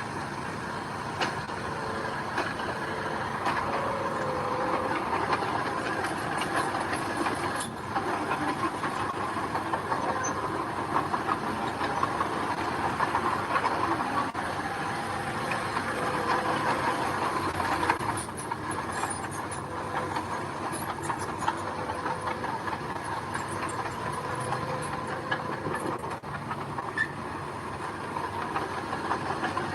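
Heavy diesel earthmoving machinery working steadily: engine noise mixed with continuous mechanical clatter and scattered clicks.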